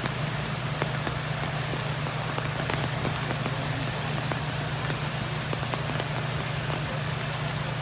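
Heavy rain falling steadily, a dense hiss with individual drops ticking through it, over a steady low hum.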